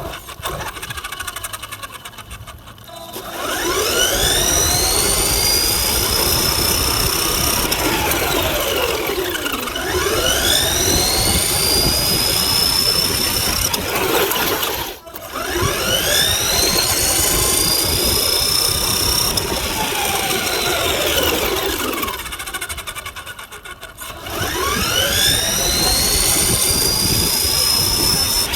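Battery-powered RC truck's electric motor whining as it drives, its pitch climbing as it speeds up and falling as it slows, over and over, heard up close from a phone riding on the truck with tyre rumble underneath. It drops briefly about halfway through and eases off for a couple of seconds before speeding up again near the end.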